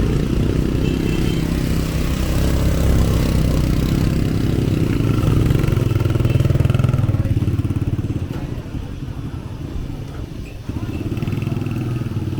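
Small motorbike engine running close by. It eases off about two-thirds of the way through and picks up again near the end.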